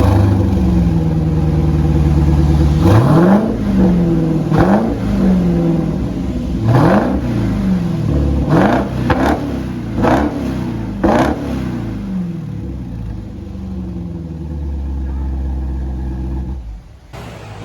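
Supercharged 6.2-litre Hemi V8 of a Jeep Grand Cherokee Trackhawk, breathing through an aftermarket Roar Racing exhaust, accelerating hard from a launch. The engine note climbs and drops back several times as it shifts up, with sharp cracks at the changes. It eases off in the second half and cuts off suddenly near the end.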